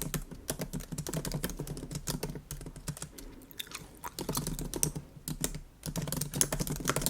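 Typing on a MacBook keyboard: quick runs of key clicks that thin out for about a second midway, then pick up again. Bubble gum chewing close to the microphone is heard in the pause and near the end.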